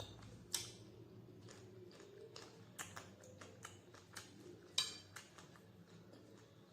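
Close-up eating sounds: irregular small clicks and smacks of chewing, with two sharper ones about half a second in and near five seconds.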